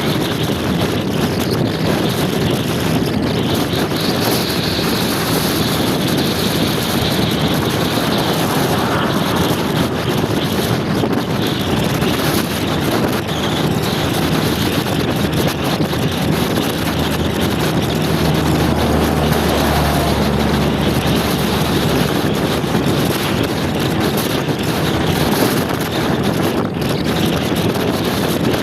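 Wind rushing over the microphone of a moving motor scooter, with engine and road noise underneath; a low engine hum grows stronger for a few seconds past the middle.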